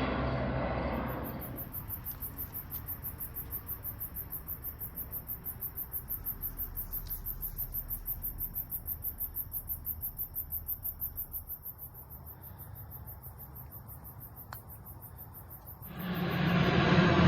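An insect trilling in a fast, steady, high-pitched pulse. A loud low rumble of a plane overhead fades out in the first second or two, and another rises suddenly near the end.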